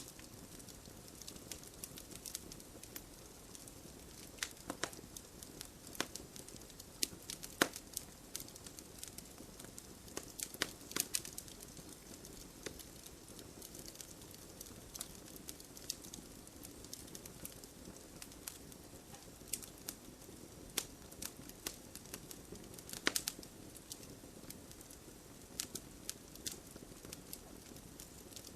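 Wood campfire crackling: irregular sharp pops and snaps over a low, steady hiss of burning wood.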